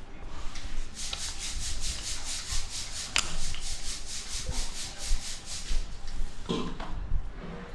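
Quick, rhythmic scrubbing strokes, about five a second, for several seconds, with a sharp click partway through and some handling clatter near the end.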